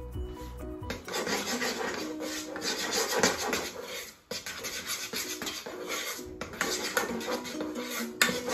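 A utensil stirring and scraping thick turn cornmeal (cornmeal cooked in coconut milk) around a saucepan, a fast, continuous rasping rub that starts about a second in, with a short break about four seconds in. The stirring is constant to keep lumps from forming.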